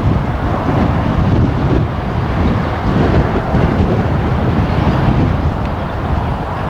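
Strong gusty wind buffeting the microphone, a loud, uneven low rumble, with the engine noise of a landing Boeing 777 jet airliner mixed into it.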